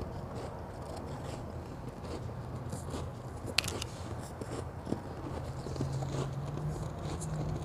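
Close-up chewing and crunching of white ice, with scraping, crackling crunches and a couple of sharper cracks, over a steady low hum.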